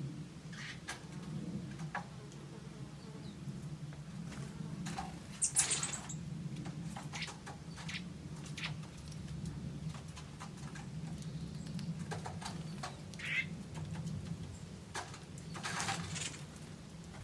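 Forest birds giving scattered short chirps and calls, the clearest a high, thin call about five and a half seconds in, with light tapping and rustling between them. A low, steady hum runs underneath.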